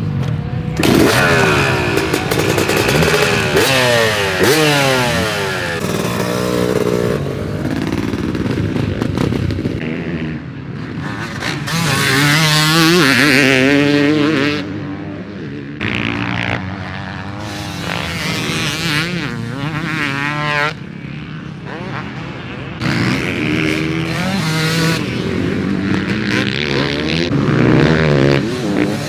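Two-stroke dirt bike with a Bills Pipe expansion chamber, revving hard while being ridden. The engine note climbs and drops over and over, with a few sudden cuts in level as the throttle is shut off.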